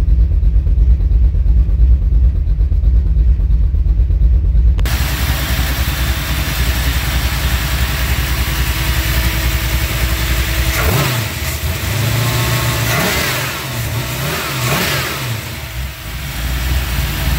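Small-block Chevy 357 V8 with a big XE274 cam running loud, a heavy low rumble for the first few seconds, then after a sudden change in the sound, the revs rise and fall several times in the second half. The owner says this engine stumbles or misfires around 2500–3000 rpm under acceleration.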